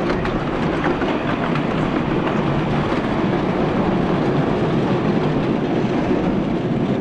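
Miniature railway train running along the track close by: a steady rumble of wheels on rail, with sharp clicks in the first second or so.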